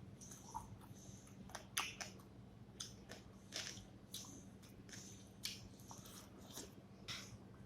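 Close-miked chewing and mouth smacking of a person eating rice with fish curry: irregular short clicks and smacks, about two a second.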